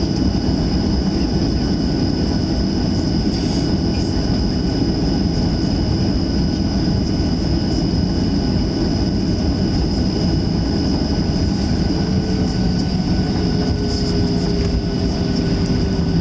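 Cabin noise of a Boeing 737-700: the CFM56 jet engines running with a steady high whine over a dense low rumble, heard from inside the cabin.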